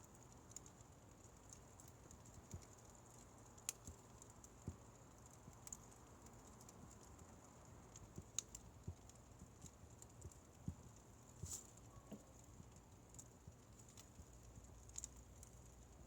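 Firewood fire crackling softly: faint, irregular small pops and snaps, a few sharper ones standing out, over a low steady hiss.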